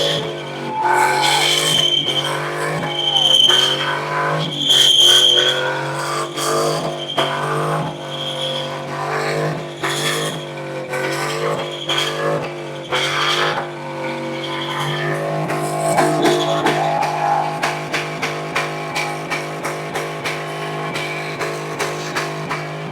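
A car doing a burnout: its engine held at high revs, wavering up and down, while the rear tyres squeal against the pavement, with music playing underneath.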